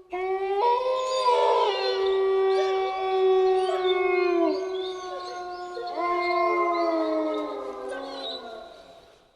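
Several canines howling together in chorus: long, overlapping held notes at different pitches with wavering higher yips above. A fresh howl comes in about six seconds in, and the chorus fades out near the end.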